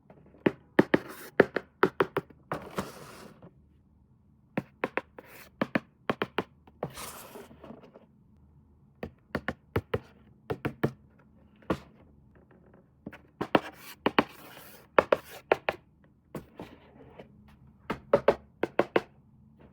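Toy packaging and plastic parts being handled during an unboxing: clusters of sharp clicks and taps with brief rustles, separated by short pauses.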